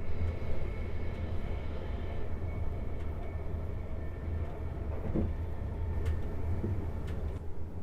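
South Western Railway electric train heard from inside the carriage while running: a steady low rumble of wheels on the rails. A faint high whine fades away after about two seconds, and a few light clicks follow later.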